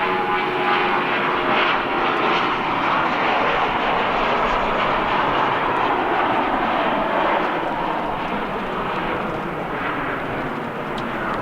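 Airbus A321-231's IAE V2500 turbofan engines running at high power as the jet airliner passes. It is a loud, steady roar with a few faint whining tones at first, and its pitch slides lower as the aircraft goes by.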